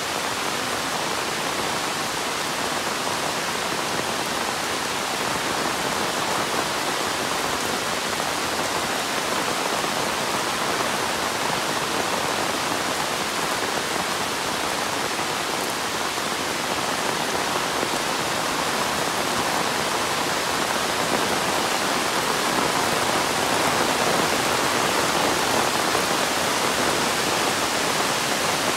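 Monsoon rain falling steadily, a dense even hiss that grows a little louder in the second half.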